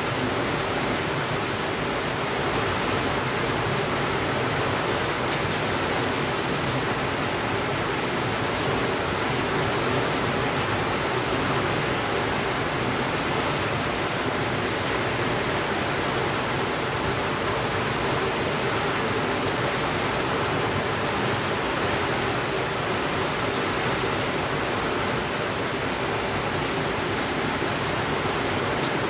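Steady rainfall, an even unbroken hiss with no change in level.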